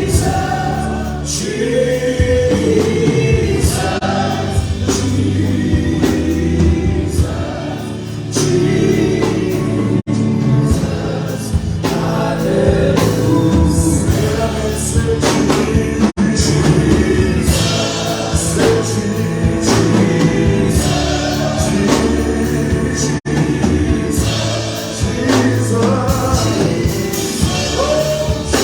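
Gospel music: a choir singing with a band, at a steady loud level, broken by a few brief dropouts.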